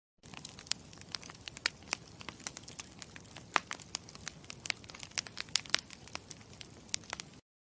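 Campfire crackling: a steady low rush of burning wood with many irregular sharp pops and snaps. It cuts in just after the start and cuts off abruptly near the end.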